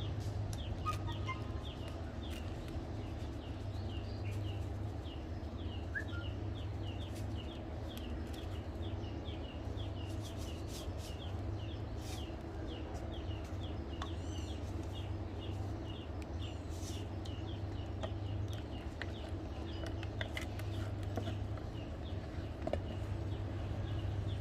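A high chirp repeating about three times a second over a steady low hum, with scattered light clicks.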